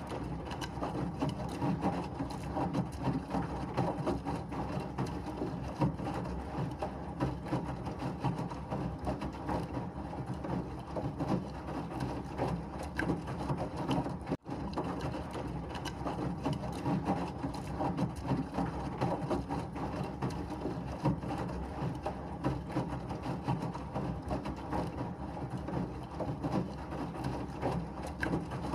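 Washing machine running, a steady churning and rumbling drone with a rattle. It drops out for an instant about halfway through.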